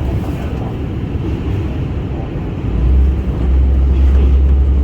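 Aizu Railway diesel railcar AT751 running along the line, a steady rumble of engine and wheels on rail. About three seconds in, a deep low drone comes in and the sound grows louder.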